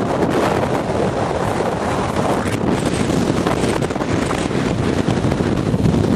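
Strong hurricane wind buffeting the microphone: a loud, steady rushing.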